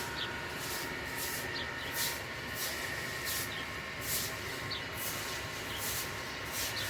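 Rhythmic scraping strokes, about one and a half a second, each with a short high chirp.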